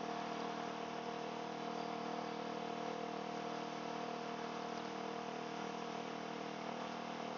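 Motorcycle engine fitted with an aftermarket sport exhaust running at a steady idle, with no revving, heard muffled through a microphone inside the rider's helmet.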